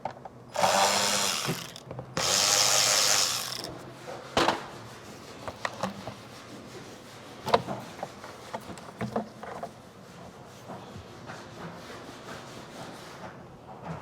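A power tool runs in two short bursts, then there are scattered clicks and knocks of hand work on the engine's intake parts.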